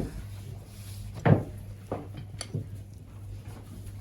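A few short knocks, the loudest about a second in and a few smaller ones after it, over a steady low hum.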